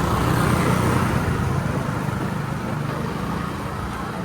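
Street traffic: a motor vehicle passing close by over a steady low traffic rumble, loudest about a second in and then easing off.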